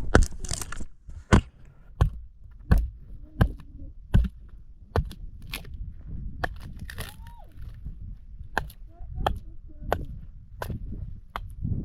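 A hand tool striking wood again and again in a steady rhythm, about one sharp knock every two-thirds of a second. The blows are heaviest over the first four seconds and lighter after.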